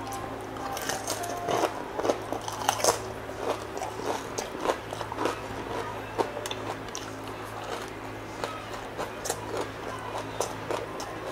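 Close-miked crunching and chewing of crispy deep-fried pork knuckle skin. Many sharp crackling bites come densest and loudest in the first three seconds, then sparser crunches as the chewing goes on, over a steady low hum.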